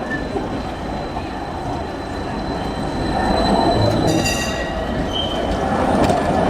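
Tram running on a city street, its steel wheels squealing on the rails in a thin high whine, with a brief sharper squeal near the middle as it grows louder.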